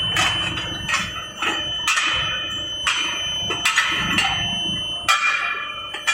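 Irregular metallic clanks with a ringing tail, about one every half second to a second, over a steady high-pitched whine, from a pipe-elbow forming machine and its metal workpieces at work.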